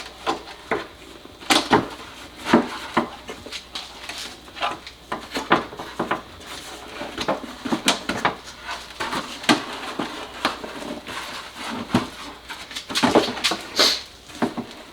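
Irregular clicks and knocks from the air filter housing and its new filter elements being handled and refitted, as the filters are pressed into place and the housing is closed.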